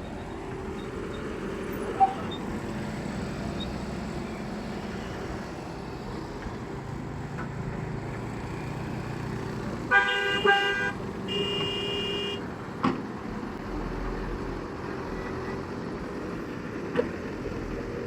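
A vehicle horn honks twice, about ten and eleven seconds in, a short blast then a longer one, over a steady engine hum. A few sharp knocks come through now and then.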